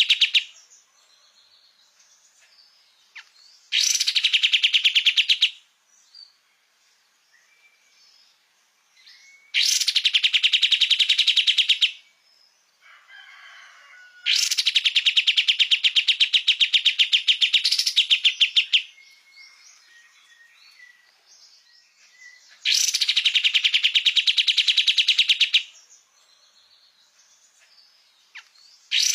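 Kapas tembak (white-shouldered triller) singing: loud, very fast trills of rapidly repeated notes, each run lasting two to four seconds and coming about every five to six seconds, with faint chirps in the gaps between.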